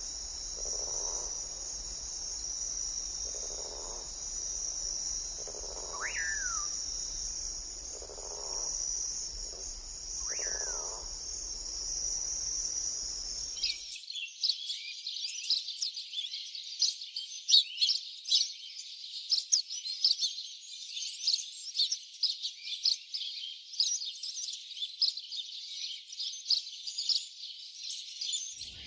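Forest ambience. A steady high insect drone runs with a soft low call repeating every two seconds or so, and two short bird calls that fall in pitch. About halfway through the sound changes abruptly to dense, rapid chirping and chattering of birds, louder and busier.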